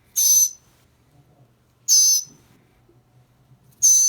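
Northern mockingbird with a broken leg giving short, harsh calls, three about two seconds apart: protest calls of a bird being held for a splint.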